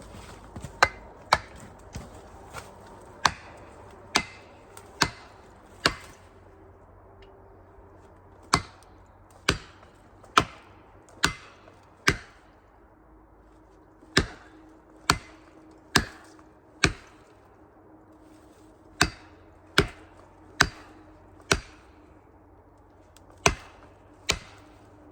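Heavy blows of a striking tool on wood, in runs of four or five strikes a little under a second apart, with short pauses between runs.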